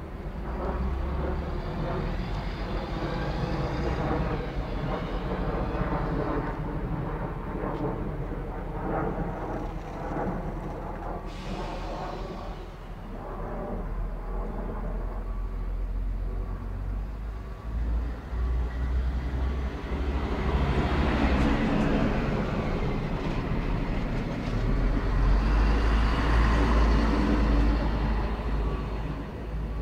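A Regiobahn diesel railcar comes up to the level crossing and runs past close by, its engine and wheels on the rails growing louder and loudest near the end. Mechanical rail noise with a pitched engine note comes before it.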